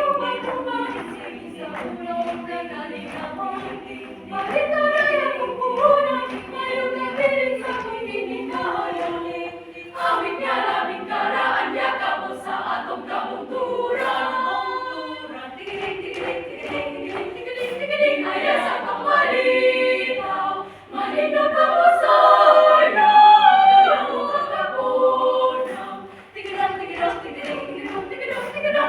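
A choir singing in harmony, several voices holding notes together in phrases with short breaks between them.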